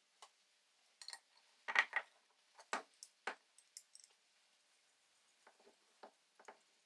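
Small metal parts clinking and knocking as they are handled: irregular short, sharp clicks, the loudest about two seconds in, fewer and fainter in the second half.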